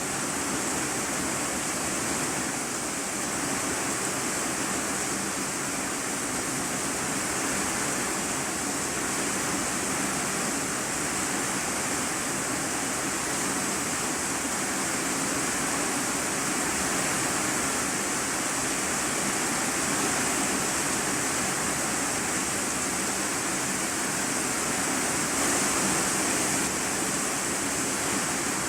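Rain falling steadily on an iron-sheet roof, heard from the room beneath: an even hiss with no single drops or breaks standing out.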